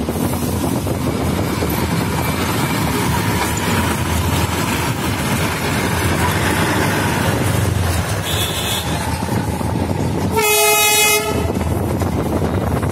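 Darjeeling Himalayan Railway narrow-gauge diesel train running along its track, a steady rumble and rattle of wheels and engine, with one short horn toot about ten seconds in.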